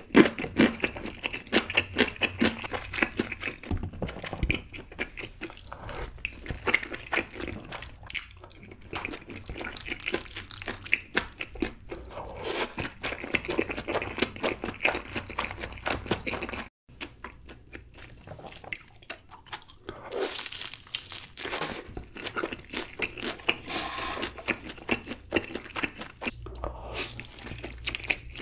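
Close-miked eating sounds: wet chewing and mouth smacking on chewy rice cakes and noodles, with noisier stretches of slurping, broken by a brief cut about two-thirds of the way through.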